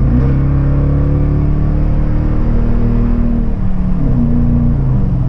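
Toyota Tundra V8 with a Flowmaster Outlaw dual exhaust accelerating hard, heard from inside the cab with the rear window down. The deep exhaust note holds and sags slightly, then changes pitch a couple of times near the end as the gears change.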